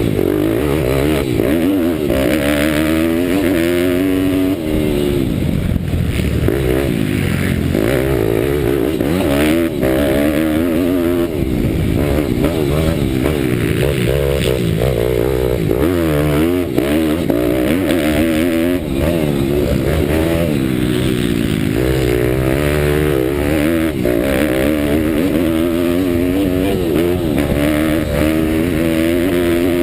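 Pitbike's 190 cc Daytona Anima single-cylinder four-stroke engine on the track, its pitch rising and falling over and over as the throttle is opened and closed between corners.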